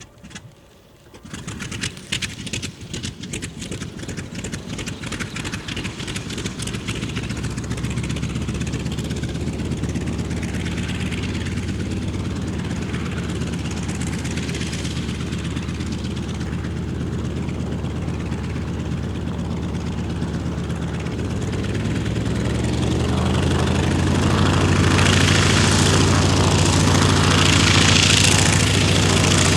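Wright R-1820 nine-cylinder radial engine of a North American T-28 Trojan starting: it catches about a second and a half in with uneven, stuttering firing, then settles into a steady idle that grows louder in the last third.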